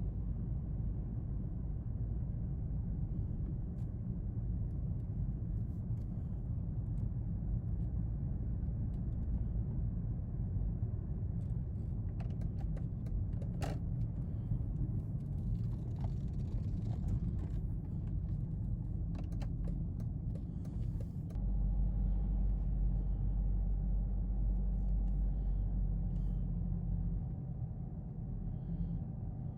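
Ferrari F40 LM on the move: a steady low rumble of engine and road, with scattered clicks in the middle. About twenty seconds in it steps up louder and deeper, and a faint steady whine joins it.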